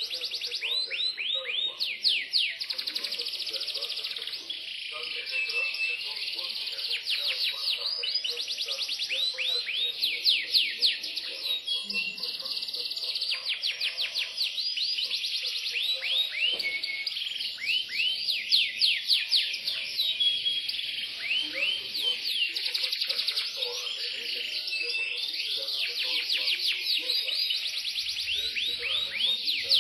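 Yorkshire canary singing a long unbroken song: fast rolls of quickly repeated falling notes, broken now and then by short steady whistled tones.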